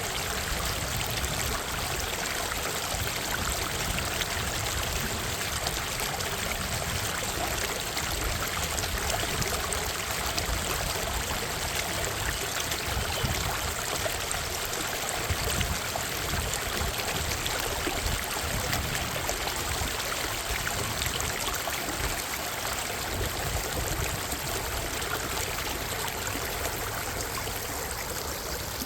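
Creek water flowing in a steady, continuous rush, easing slightly near the end.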